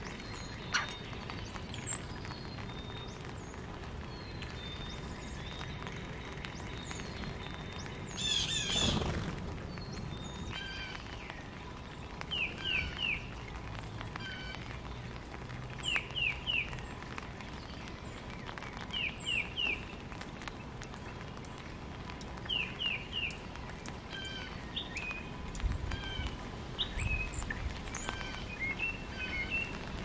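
Wild backyard birds calling: a short phrase of three quick down-slurred notes repeats every three or four seconds among scattered single chirps, with a brief louder flurry of notes about eight seconds in and a few low thumps near the end.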